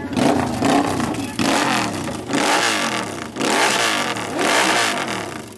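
Superbike engines revved hard again and again, the pitch rising and falling with each throttle blip about once a second.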